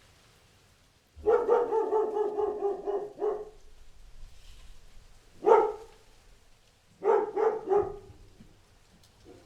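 Dog barking in bursts: a run of barks about a second in lasting some two seconds, a single sharp bark in the middle, and a quick run of barks a little later.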